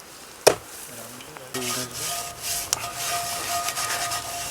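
Hands mashing crumbled paneer, a gritty rubbing sound that starts about one and a half seconds in, after one sharp knock about half a second in. A thin steady tone runs under the second half.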